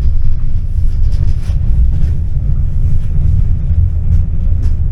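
Low, steady rumble of a tram in motion, with a few faint light clicks and rattles.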